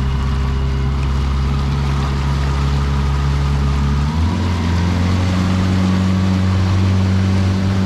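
Mariner outboard motor running steadily, its revs stepping up about four seconds in.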